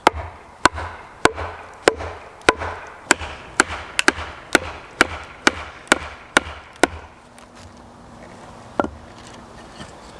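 Steady, repeated blows splitting a thick log lengthwise with a wedge, each a sharp strike with a slight ring. There are about fourteen of them, coming a little under two a second and quickening slightly, until they stop about seven seconds in. One more blow lands near the end.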